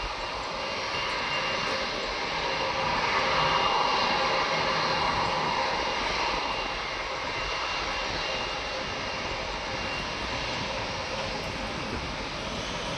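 Turbofan engines of an Airbus A321-211 (CFM56) running: a steady rushing jet noise with a thin whine on top. It swells about three to five seconds in, then eases back to a steady level.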